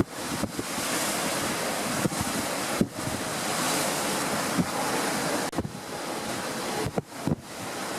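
Wind blowing across the microphone: a steady rushing noise with several short, low thumps from gusts.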